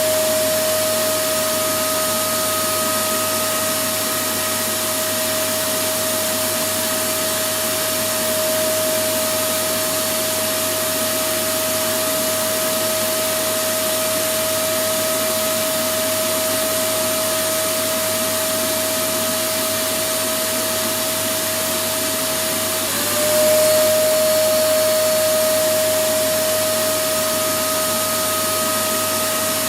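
Electric vacuum cleaner running continuously: a steady rushing of air with a constant whine from its motor. About two-thirds of the way through, the whine dips for a moment and the sound swells slightly before settling back.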